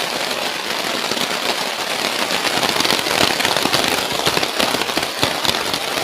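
Heavy rain pounding on a plastic tarp shelter, a dense crackling patter that gets heavier about halfway through.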